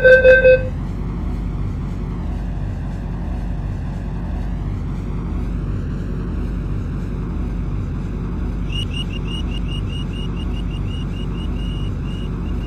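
An MTR C-Train's door-closing chime beeps and stops just after the start. Then comes the steady noise of the train running, and about two-thirds through a quick series of short high pips begins.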